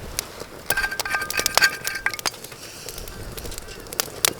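Scattered sharp clicks and taps of metal utensils against a camp cooking pot, with a brief steady ringing tone about a second in.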